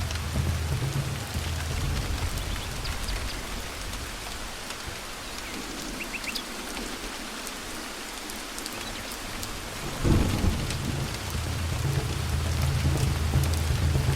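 Steady heavy rain with thunder. A low rumble dies away in the first few seconds, then about ten seconds in a sudden thunderclap breaks into a long rolling rumble under the rain.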